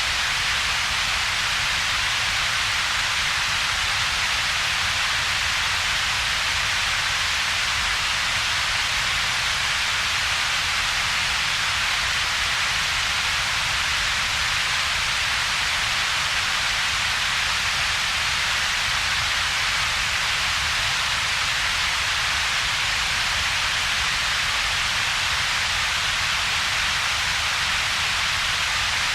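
Synthetic double-peaked noise, steady and unchanging: a hiss strongest in the upper middle range, with a weaker low rumble underneath and a gap between the two.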